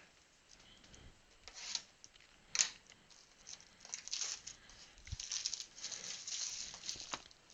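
Packaging of a hobby box of football trading cards being torn open and handled: faint crinkling and tearing, with a sharp click about two and a half seconds in and denser rustling over the last three seconds.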